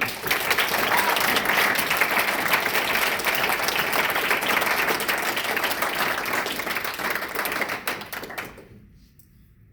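Audience applauding, then dying away about eight and a half seconds in.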